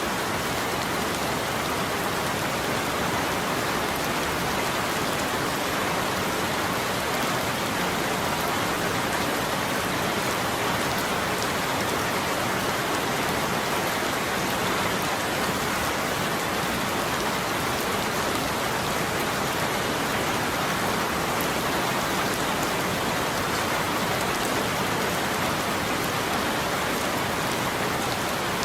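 Steady rain falling, an even hiss with fine patter of drops that does not change.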